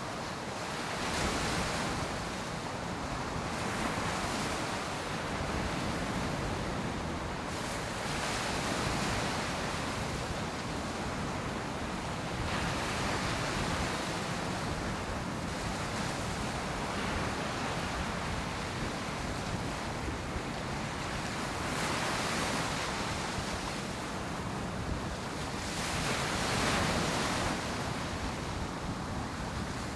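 Ocean surf breaking and washing up on a beach, waves swelling every few seconds over a constant rush, with some wind on the microphone.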